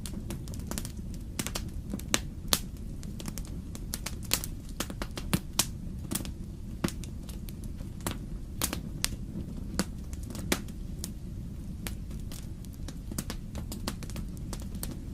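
Wood fire crackling in a fireplace: a steady low rumble of burning with irregular sharp pops and snaps from the logs, a few louder ones in the first half.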